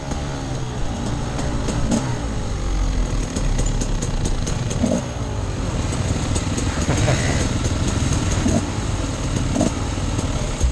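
Off-road enduro motorcycle engine running steadily, with a few brief knocks.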